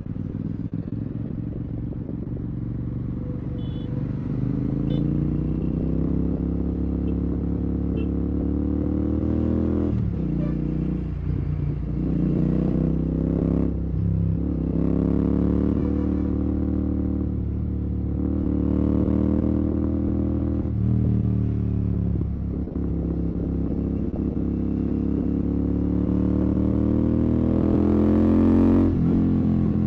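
Royal Enfield Continental GT 650's 648 cc parallel-twin engine through a Red Rooster aftermarket exhaust with the dB killer removed, pulling through traffic. The revs climb and then drop sharply at each gear change, four times, and the engine is loudest just before the last shift near the end.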